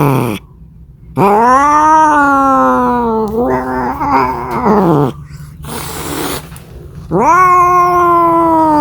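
A cat yowling in long, drawn-out calls that rise and then sink in pitch, the caterwaul cats make when calling for a mate. One long call fills the first half, a short breathy noise follows, and another call begins near the end.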